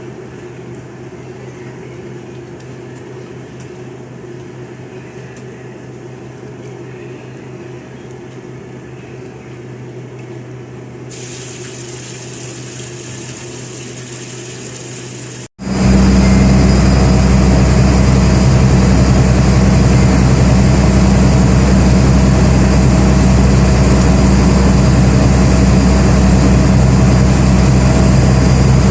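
Boat engine running steadily: first a moderate hum, then, after a cut about fifteen seconds in, a much louder, close heavy engine drone with a deep steady hum.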